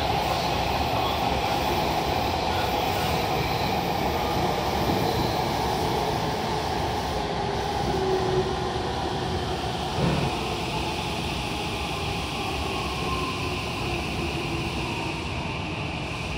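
Running noise inside an Odakyu 1000-series electric train car, heard in a tunnel: steady wheel and motor noise with faint gliding tones, slowly easing in level. There is a single sharp knock about ten seconds in.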